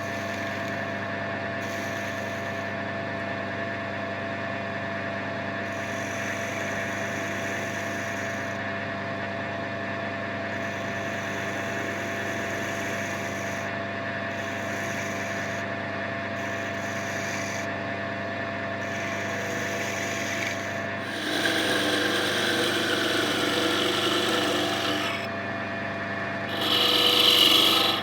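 Wood lathe running steadily with a hum. About two-thirds of the way in, a tool or abrasive rubs against the spinning oak workpiece in two louder spells, the second near the end.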